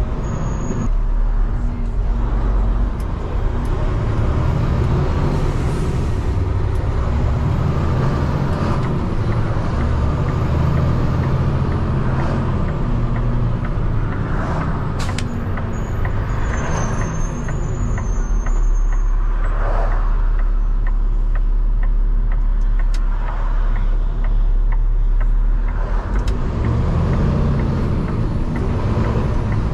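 Diesel engine of a Peterbilt 589 dump truck running under way as it pulls out and drives, a steady heavy rumble whose pitch rises and falls.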